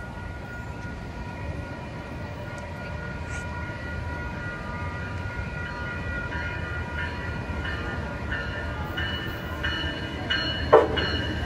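Amtrak Pacific Surfliner train led by a Siemens SC-44 Charger locomotive approaching, its low rumble slowly growing louder, while a bell rings over and over from about four seconds in. A brief loud sound comes near the end.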